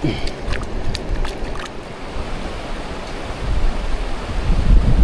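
Steady rush of river water, with a few short sharp clicks or splashes in the first couple of seconds and wind buffeting the microphone toward the end.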